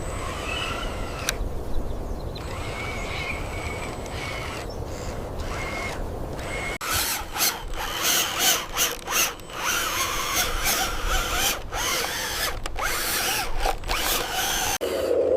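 Small electric motors and gears of radio-controlled construction models whirring. About seven seconds in the sound changes suddenly to a busier run of clicks and short pulses.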